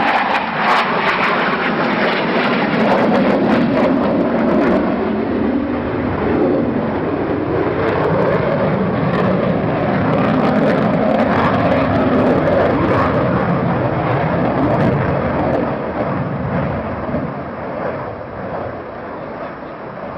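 Aircraft engine noise as a plane flies past: loud and steady, falling in pitch during the first couple of seconds and fading away over the last few seconds.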